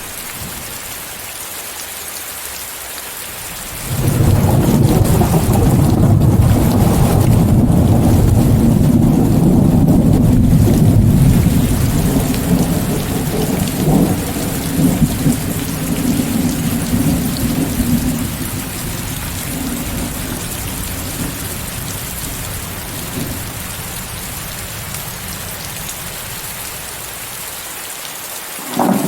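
Steady heavy rain with a hiss of white noise, and a long rolling thunderclap that breaks in suddenly about four seconds in, rumbles loudly for several seconds and slowly dies away; another rumble of thunder starts at the very end.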